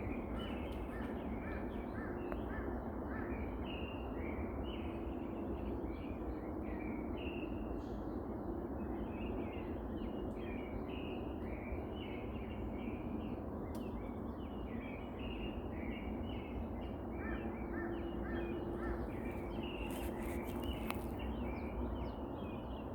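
Dawn chorus of several mountain songbirds: many short chirps and whistled notes overlapping throughout, over a steady low background hiss.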